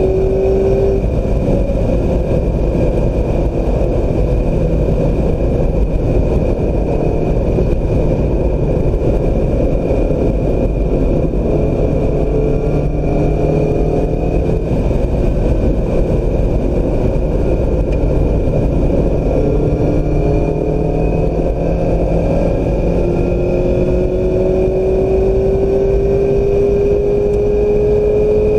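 2016 Mazda MX-5 Miata's 2.0-litre four-cylinder engine under load on a racetrack, its pitch climbing in long rises as it accelerates, over constant loud road and wind noise.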